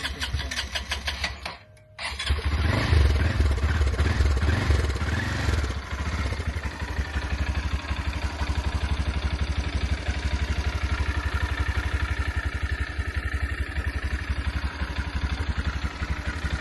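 Small 125 cc motorcycle engine starting: it runs for a moment and cuts out, then catches again about two seconds in. It is revved for a few seconds, then settles into a steady, pulsing idle.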